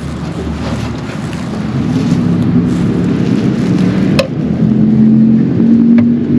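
A steady low engine-like drone, growing louder, with a sharp click about four seconds in and another near the end.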